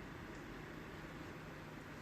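Quiet, steady background hiss with a faint low hum; no thunder or other distinct sound.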